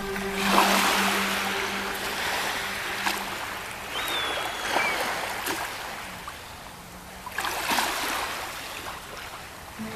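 Small lake waves lapping and splashing against the shore, swelling and falling in several surges.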